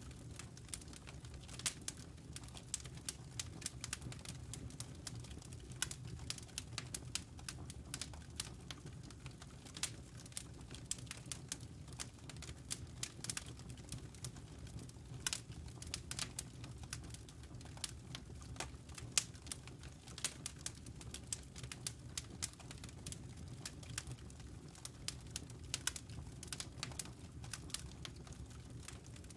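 Campfire burning: wood and embers crackling with frequent irregular sharp pops over a low, steady rumble of the fire.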